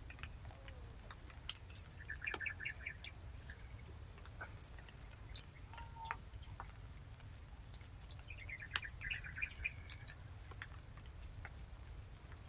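A bird chirping in two short runs of quick notes, about two seconds in and again about six seconds later, over a faint low rumble with scattered light clicks.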